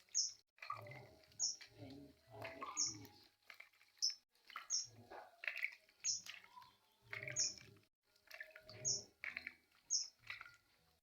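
A pet bird chirping: a short, high chirp repeats about once a second, mixed with other softer calls.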